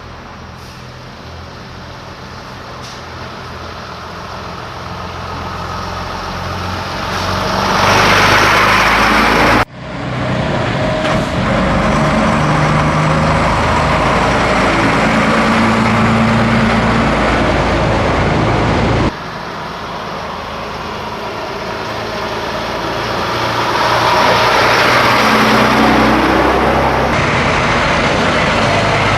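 Scania truck's diesel engine running while driving, growing steadily louder as it picks up revs over the first eight seconds or so, then pulling steadily, with abrupt breaks about ten and nineteen seconds in.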